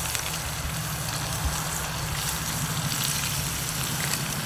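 Squid sizzling steadily in hot olive oil in a cast iron skillet on a gas grill, over a steady low rumble.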